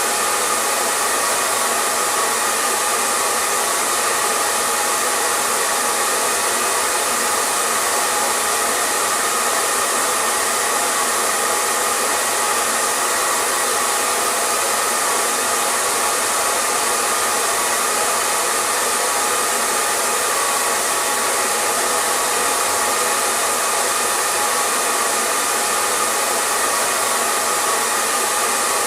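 Hair dryer running steadily, a constant whooshing rush of air with a faint motor whine.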